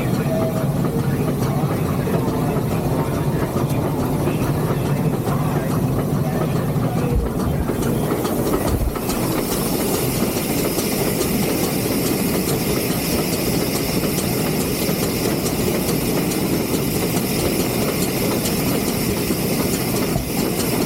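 Steady rumble and hiss in the cab of a three-truck Shay steam locomotive, with a higher, brighter hiss of steam coming in about nine seconds in and holding.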